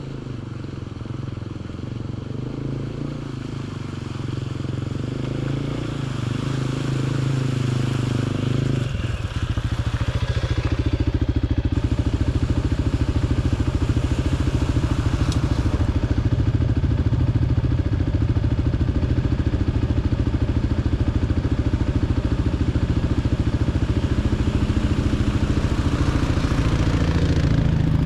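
2023 Kawasaki KLX 300's single-cylinder four-stroke engine running as the dirt bike is ridden. It grows slowly louder, then the engine note changes abruptly about a third of the way in and holds steady and louder after that.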